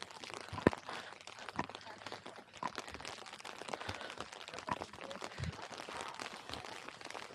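Rain falling on an umbrella held overhead: a dense scatter of small taps over a steady hiss, with a few louder footsteps on wet ground.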